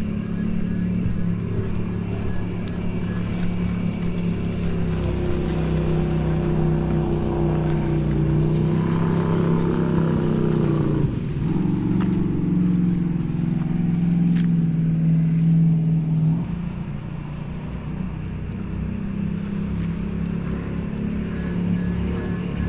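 A vehicle engine running steadily while driving, its pitch dipping briefly about eleven seconds in and settling somewhat quieter a few seconds later.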